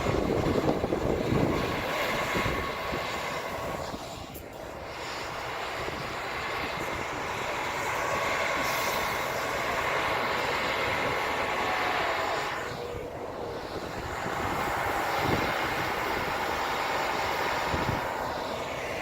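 Steady vehicle noise: a running engine's hum with a wash of travel noise, easing briefly about four and again about thirteen seconds in.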